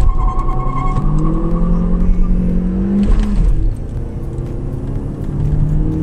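Car engine accelerating under load, its pitch climbing for about three seconds, dropping sharply at a gear change, then climbing again in the next gear; likely the 2011 Chevy Cruze Eco's 1.4-litre turbo four-cylinder, worked through its six-speed manual.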